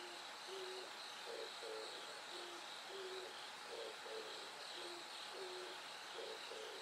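A bird's low hooting calls, repeated in a steady rhythmic series of short notes, over the continuous high trilling of bell crickets.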